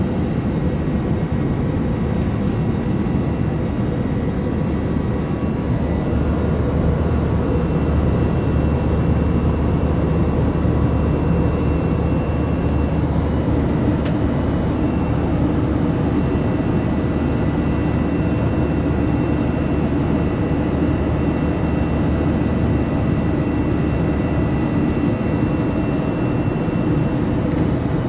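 Steady cabin noise of a Delta Airbus A321 in flight: engine and airflow rumble with a faint high whine over it.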